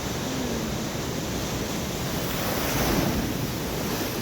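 Rough storm surf breaking on the shore, a steady wash of sea noise with wind buffeting the microphone; one wave crashes loudest about three seconds in.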